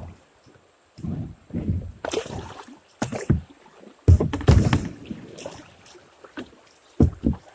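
Kayak being paddled: uneven strokes of the paddle splashing through the water, with a run of heavier low knocks about four seconds in.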